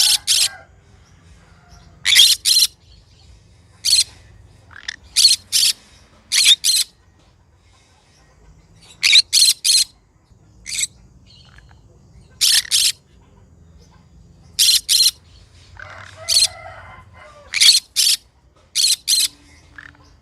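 Green conure giving loud, shrill squawks in quick pairs and threes, repeated every second or two, with a short stretch of softer, lower chatter near the end.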